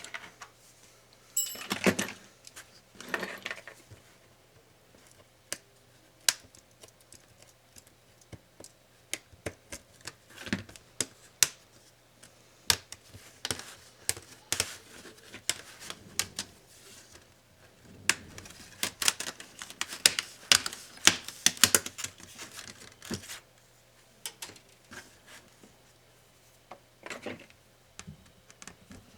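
Hand work on a laptop being disassembled: scattered sharp clicks and taps of small plastic and metal parts and tools being handled and set down, with a brief scrape about two seconds in and a denser run of clicking and scraping about two-thirds of the way through.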